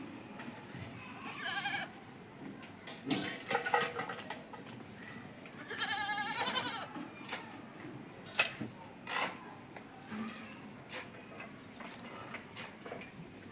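Goats bleating: three wavering calls, the longest about six seconds in, with short clicks and rustles between them.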